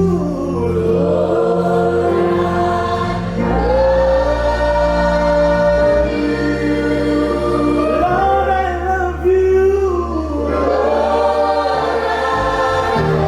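Gospel worship music: a choir singing long, held notes over a sustained low bass accompaniment.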